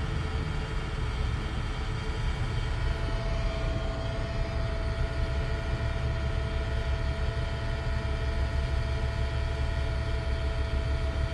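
Automotive smoke leak-detection machine running steadily during an intake smoke test, with wind rumbling on the microphone. A faint steady whine joins about three seconds in.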